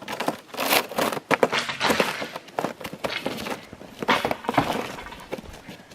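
Cross-country skis crunching and swishing over snow in a run of irregular strides.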